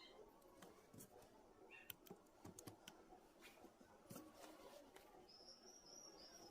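Near silence with faint, scattered small clicks and taps, and a faint high chirp near the end.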